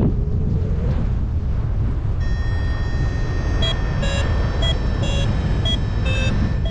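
Wind buffeting the microphone in flight, with a paragliding variometer that sounds a steady tone about two seconds in and then beeps roughly twice a second, the audio signal of climbing in a thermal.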